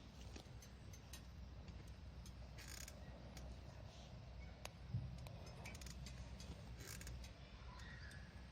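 Small wood fire crackling in a compact wood-burning camp stove, with sparse irregular pops and ticks from burning twigs.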